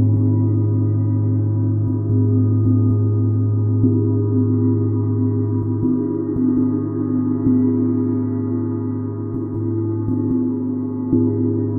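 Deep, sustained metallic drone of a sound-bath instrument with many steady overtones layered together, renewed by soft strikes every second or two.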